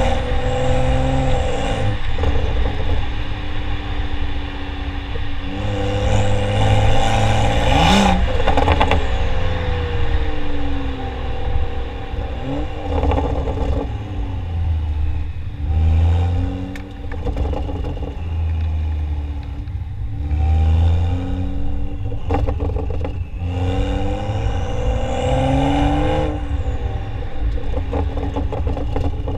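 Tuned BMW F30 335i's turbocharged inline-six running through a catted downpipe and modified factory muffler, revving up and easing off again and again, its pitch climbing and dropping several times, over a deep exhaust rumble. A few sharp crackles come about eight seconds in.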